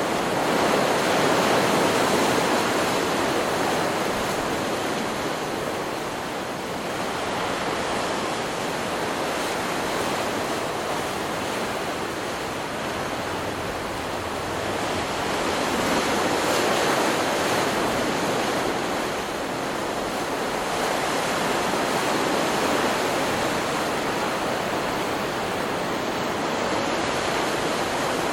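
Ocean surf from a stock beach recording: waves breaking and washing in as a continuous rush, swelling and easing every several seconds.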